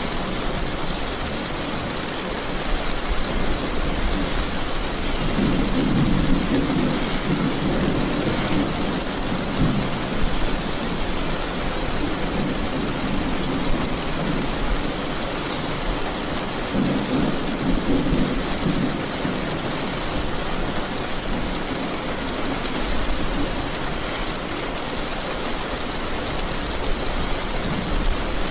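Steady heavy rain with low, rolling thunder rumbling beneath it, swelling twice, about five seconds in and again past halfway.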